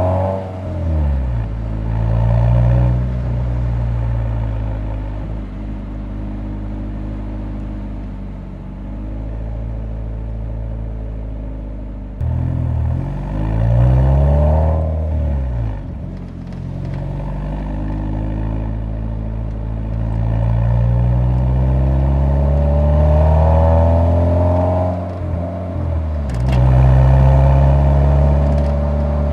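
Exhaust note of a Nissan 180SX recorded at the muffler while driving: the engine's pitch climbs under acceleration and drops back at gear changes or lift-off several times, with steadier cruising stretches between.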